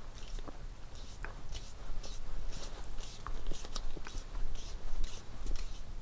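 Small plastic RC kit parts and a hand screwdriver being worked while a screw is fitted into the rear hub carrier mount: irregular light clicks, taps and scrapes over a low steady hum.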